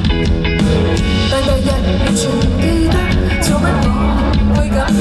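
Live band performing a song, with a singing voice over the band.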